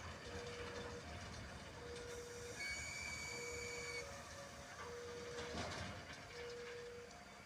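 Train running with a steady rumble. A mid-pitched tone beeps on and off about every second and a half throughout, and a high whistle-like tone sounds for about a second and a half a third of the way in.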